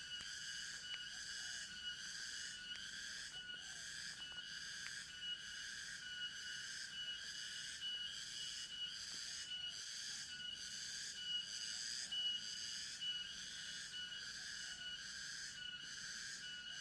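Forest insect chorus: a steady, high-pitched drone pulsing evenly about one and a half times a second, with a thin whistling tone running through it.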